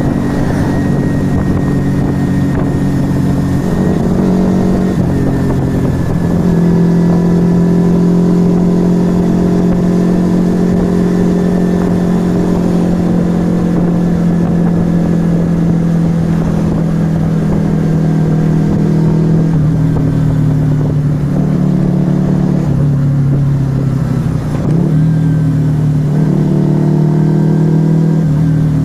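Yamaha XV125 Virago's small air-cooled V-twin running through a Turbo Kit aftermarket exhaust while riding. The engine note steps down in pitch about six seconds in and dips again with a brief drop in loudness near the end, like gear changes.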